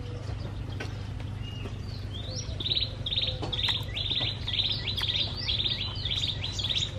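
A small bird chirping in a quick, even series of short rising notes, about two or three a second, starting about two seconds in, over a steady low hum.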